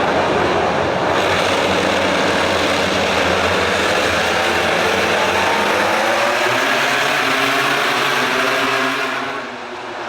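Racing motorcycle engines running loudly at the circuit, with engine pitch sweeping up and down in the second half and the noise easing off near the end.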